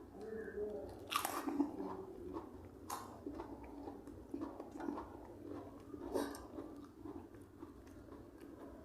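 A person chewing and biting crunchy food close to the microphone, with three loud crunches about a second, three seconds and six seconds in.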